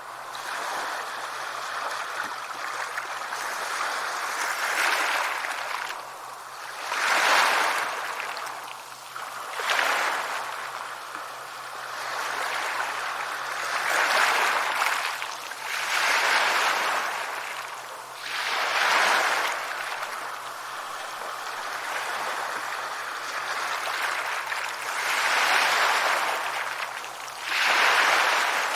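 Sea waves breaking on a shore: a continuous rushing of surf that swells into a louder wash every few seconds.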